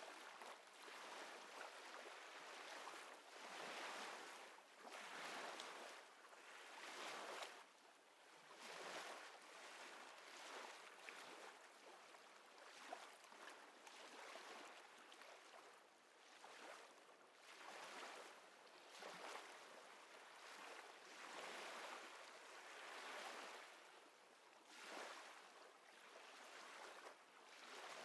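Faint small waves lapping at the water's edge, a soft wash that swells and fades every second or two.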